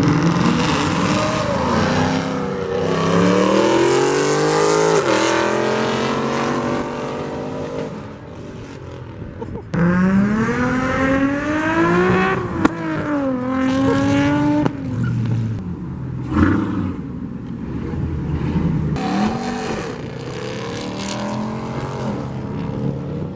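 Car engines revving and accelerating hard. The engine pitch climbs and drops several times, with a couple of sharp cracks in the middle.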